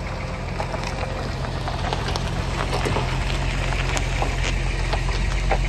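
Rain pattering, with scattered drops ticking sharply on a hard surface, over a low steady hum.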